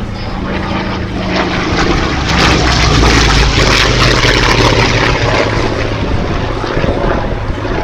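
Yakovlev Yak-11's seven-cylinder radial engine and propeller as the aircraft flies past. The sound grows louder to a peak about three seconds in, and the engine note drops in pitch as it passes.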